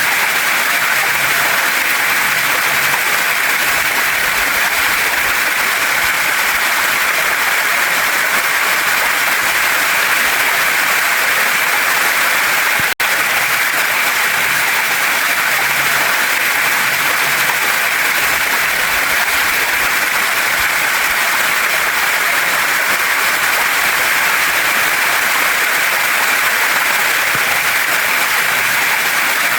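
Waterfall and stream water rushing steadily over rocks, a dense, even hiss. It cuts out for a split second partway through.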